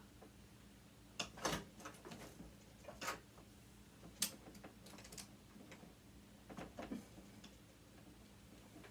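Scattered small clicks and taps of a screwdriver and metal parts being handled while a sewing machine is taken apart, irregular and a second or so apart.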